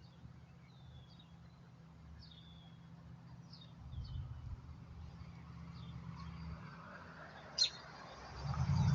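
A small bird calling with short, high chirps that slide downward, about one a second, over a steady low hum. A sharp click comes near the end, then a louder rumble builds.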